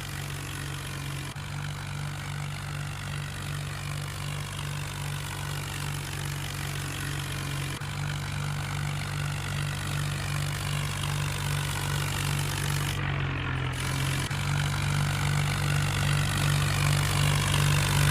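Tractor diesel engine running steadily with an even low drone, growing gradually louder.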